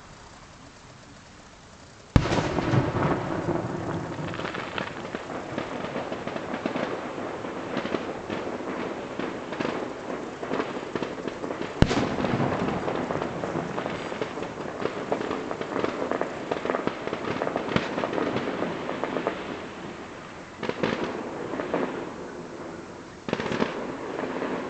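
Fireworks display going off, heard from a distance: a sharp bang about two seconds in starts a dense, continuous run of bangs and crackles, with another sharp bang near the middle. The sound eases off briefly near the end before more bangs come in. The bangs echo back off nearby hills.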